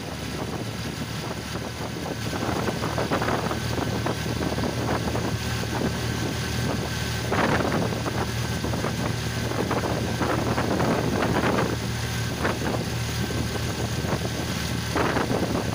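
A vehicle on the move, with a steady low engine hum and wind buffeting the microphone.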